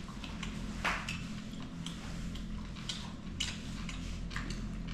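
Scattered light clicks and taps of cutlery on plates during a seafood meal, one sharper click about a second in, over a steady low hum.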